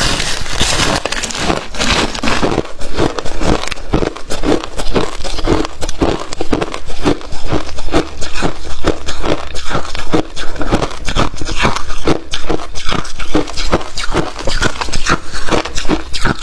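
A person biting and chewing freezer frost close to the microphone: a continuous run of crisp, crackling crunches, several a second.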